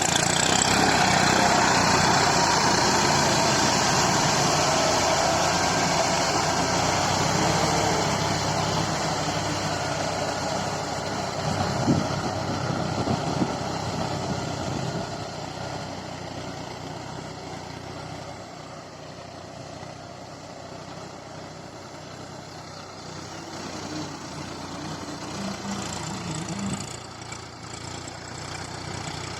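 New Holland 3230 tractor's three-cylinder diesel engine running steadily. It is loudest at first, fades over the middle, and grows louder again near the end, with a couple of short knocks partway through.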